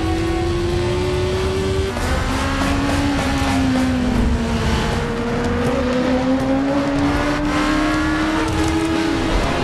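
High-revving motorcycle engines racing at speed, their pitch climbing and falling as they accelerate and back off, over a dense rumble of road and engine noise.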